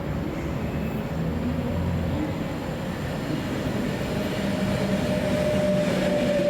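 Avanti West Coast Pendolino electric train (Class 390) running through the station: a low rumble with a steady whine that grows louder toward the end.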